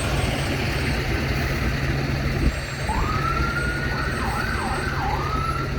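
Fire truck siren starting about halfway in: it rises in pitch, then dips down and back up twice, over the steady low running of the truck's engine.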